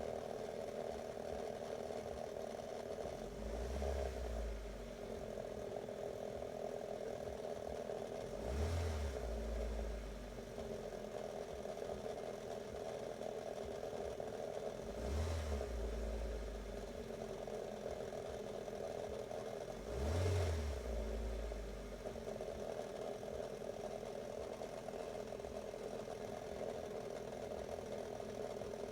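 Corsa engine running at idle with a steady drone, revved briefly four times, each rev a short rise lasting a second or two. The engine is being run to show an abnormal engine noise.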